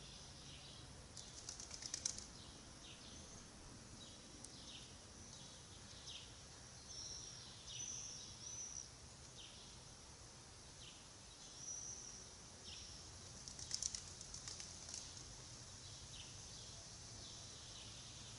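Faint outdoor ambience of small birds chirping, with many short high calls scattered throughout. Twice, a brief burst of rapid rattling stands out as the loudest sound, about two seconds in and again near fourteen seconds.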